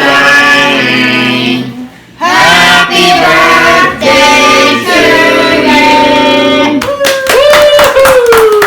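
Voices singing a melody, with a short break about two seconds in; about seven seconds in the singing gives way to clapping and a long falling cheer.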